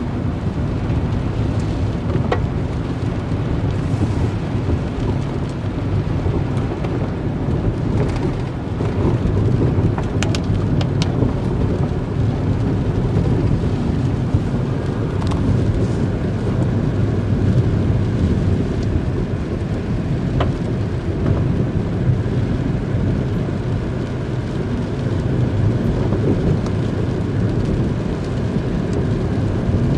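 Car driving along a road: a steady low rumble of engine and road noise, with a few faint ticks and knocks scattered through it.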